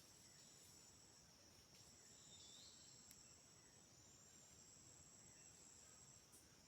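Faint, steady, high-pitched chorus of insects in the rainforest, holding an even two-tone drone, with a brief faint call about two and a half seconds in.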